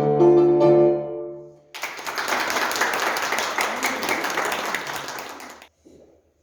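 Live instrumental music, with piano to the fore, ending on a final chord that dies away in under two seconds. Then an audience applauding for about four seconds, stopping near the end.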